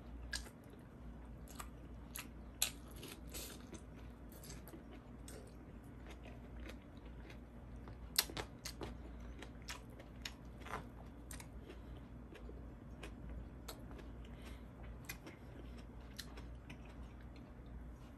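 Close-miked eating: a person chewing and biting food, with many short crunchy clicks and two louder snaps, one a few seconds in and one about eight seconds in.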